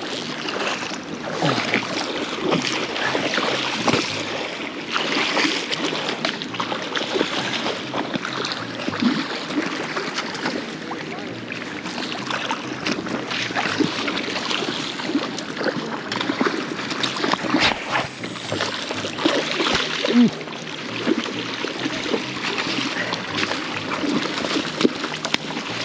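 Kenai River current rushing and splashing, a steady wash of moving water broken by many small splashes.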